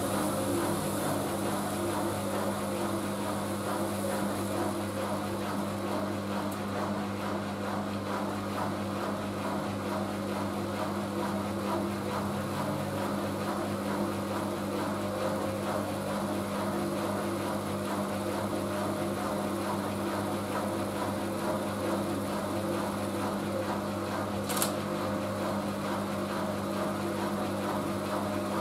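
Siemens Siwamat washing machine running with a steady motor hum, with one short sharp click near the end.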